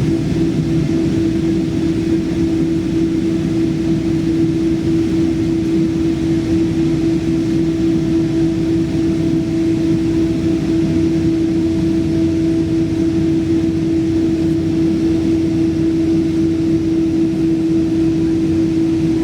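Boeing 777-200 engines and air system running, heard inside the passenger cabin: a steady rumble and hiss with a constant hum at one pitch that neither rises nor falls.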